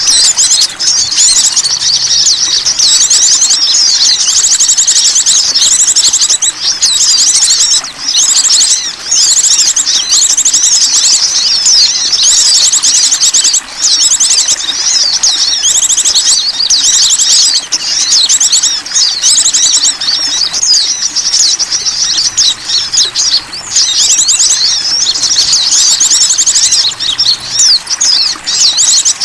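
Bird-lure call for small wild birds: a dense, unbroken chatter of rapid high-pitched chirps and trills, loud and continuous, played to draw small birds in.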